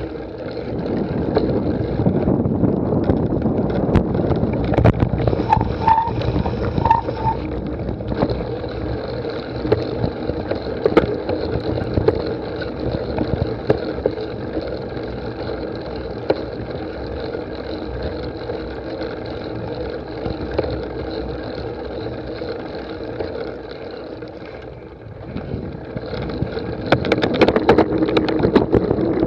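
A cyclocross bike ridden over rough ground: a steady rumble and rattle with many small clicks, mixed with wind on the microphone. It eases off briefly about 25 seconds in, then grows louder again.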